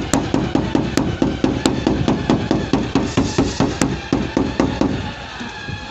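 Fast, even hammer taps on a car's sheet-metal body panel, about four or five a second, of the kind used in paintless dent repair; the tapping stops about five seconds in.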